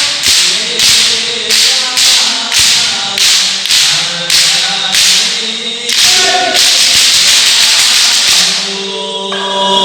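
Group singing a shalawat chant in chorus over sharp strokes of hadrah frame drums about twice a second; about six seconds in the strokes run together into a fast continuous roll for a couple of seconds before the singing carries on more sparsely.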